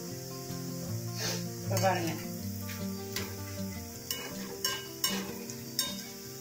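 Boondi (gram-flour batter drops) sizzling as they deep-fry in hot oil in a kadai, while a wire slotted skimmer stirs them, scraping and clinking against the pan several times from about a second in.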